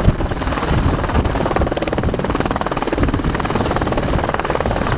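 AH-64 Apache attack helicopter flying close by, its rotor giving a rapid, steady chop over the turbine noise.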